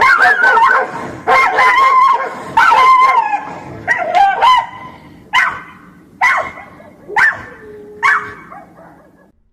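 Dog barking and whining in a run of loud, overlapping calls, then single short yelps about once a second that grow fainter and stop near the end.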